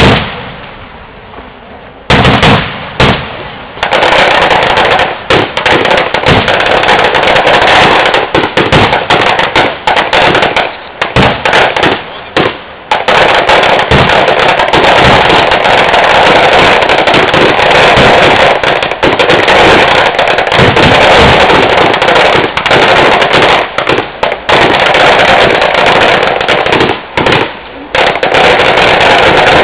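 A string of firecrackers going off: a single bang at the start, a few more about two to four seconds in, then a fast, continuous crackle of bangs with only brief breaks.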